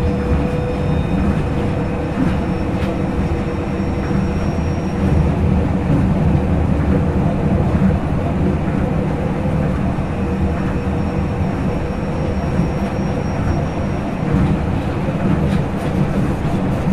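Tokyo Monorail 2000 series train running at speed, heard inside the car directly above its traction motors: a steady rumble from the running gear with a thin whine from the Hitachi IGBT VVVF inverter and motors, and fainter high tones that rise slightly.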